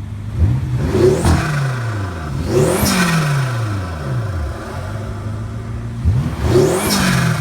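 BMW M6 Gran Coupe's twin-turbo V8 through straight pipes idling and revved three times, each rev climbing quickly and falling slowly back to idle.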